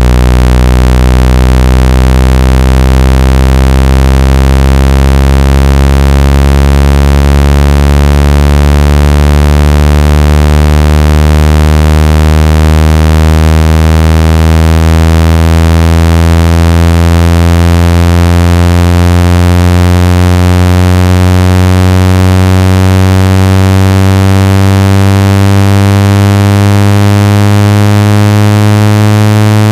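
Loud, buzzy electronic tone of a phone-speaker water-eject sound, its pitch rising slowly and steadily. It is meant to vibrate trapped water out of a wet speaker or earpiece.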